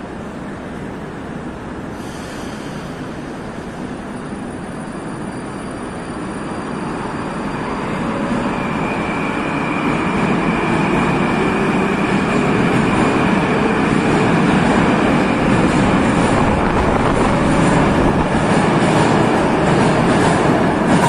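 Moscow Metro train running through the station, its rumble and wheel noise growing louder over the first ten seconds and then holding steady, with a high whine setting in about eight seconds in.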